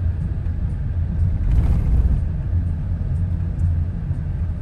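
Steady low road and engine rumble inside a moving car's cabin, with a brief louder swell about a second and a half in.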